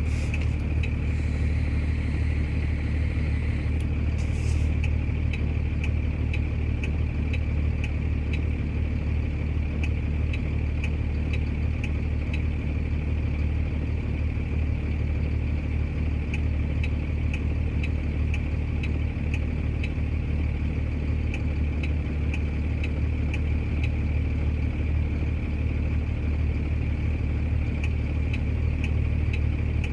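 Tow truck's engine idling steadily, a constant low drone, with a faint high whine for a few seconds near the start.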